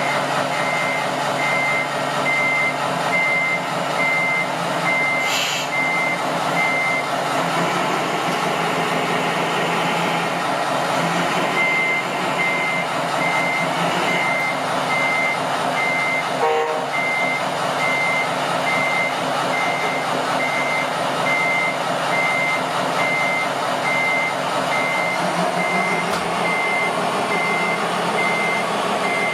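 Reversing beeper of an RC construction truck, beeping steadily about twice a second over the running noise of the model's motor. It stops for a few seconds near the middle, then starts again.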